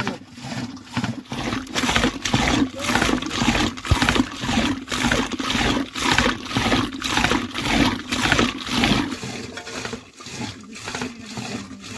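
Yogurt being churned by hand in a wooden churn, the liquid sloshing in an even back-and-forth rhythm of about two to three strokes a second. The butter has not yet come after long churning.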